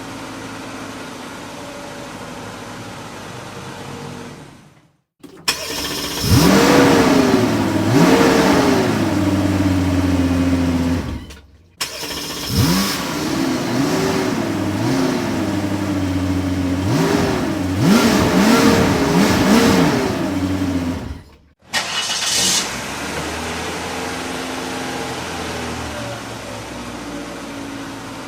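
Car engine idling, then revved again and again in short blips, each one rising and falling in pitch, in two runs split by brief silent gaps, then settling back to a steady idle.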